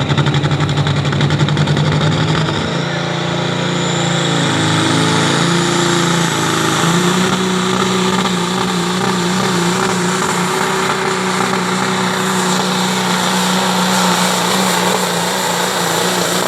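Pro Stock semi truck's Caterpillar C15 diesel engine pulling the sled under full load, its pitch climbing in steps in the first seven seconds and then holding high and steady, with a rising whine over the top early on.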